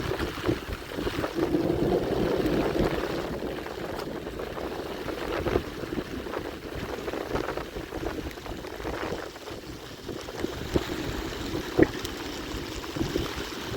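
Strong wind and rain, with wind noise on the microphone and scattered sharp knocks and rustles, a little louder in the first few seconds.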